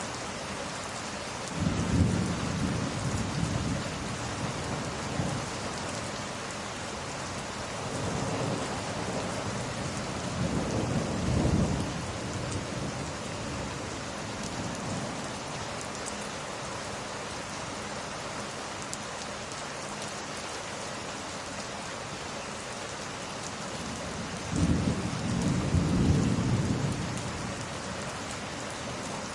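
Steady heavy rain with rolling thunder: three low rumbles, about two seconds in, around ten seconds in, and near the end, standing out above the constant rain.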